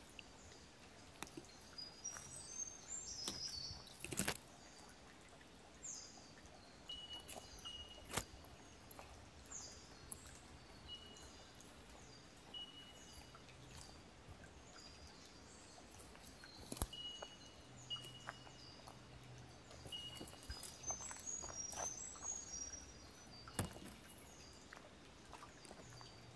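Birds calling and singing: repeated short whistled notes and quick stepped runs of high notes. A few sharp clicks cut in, about four seconds in, eight seconds in, then twice later.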